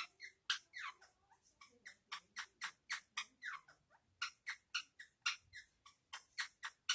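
Indian ringneck parakeets chattering: a rapid run of short, sharp high-pitched chirps, several a second, some of them sliding down in pitch.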